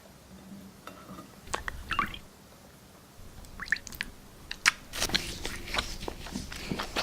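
Floral foam being crushed and broken close up, giving small crackles and crunches. They come only now and then at first and grow thick and fast over the last two seconds.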